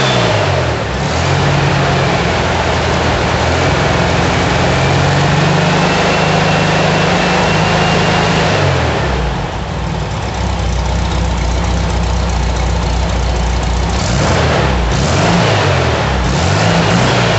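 Rebuilt Okrasa-kitted 1300 cc Volkswagen air-cooled flat-four running on an engine stand, held at raised revs, dropping to a low idle about halfway, then revved up and down several times near the end.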